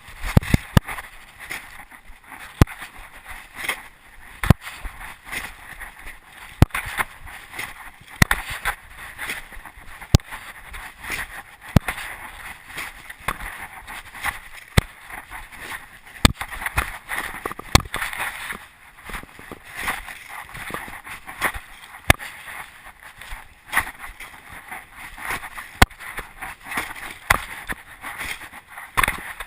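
1/8-scale RC monster truck running over rough ground: a steady whirring hiss with frequent irregular sharp knocks and clatters.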